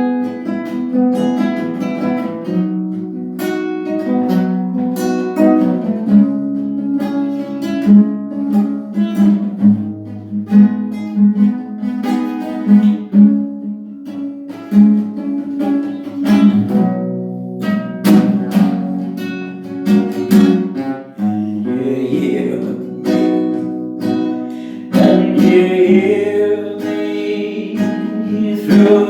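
Acoustic guitar playing chords, plucked and strummed, in a steady instrumental passage.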